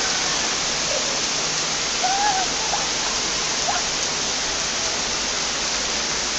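Heavy thunderstorm rain pouring down, a steady loud hiss of falling water.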